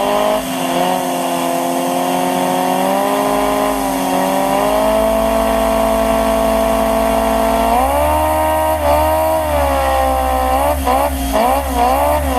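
LEGO vacuum engine with a four-blade propeller running at speed, a steady engine-like whine. Its pitch climbs in the first second and holds, rises a step about eight seconds in, then swings quickly up and down several times near the end.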